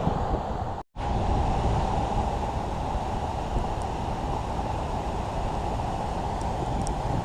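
Gale-force wind buffeting the microphone, a loud, steady rushing heavy in the low end, which cuts out for an instant about a second in.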